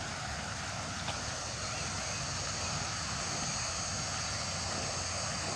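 Steady outdoor background noise with a faint high-pitched steady hum, and a single small click about a second in.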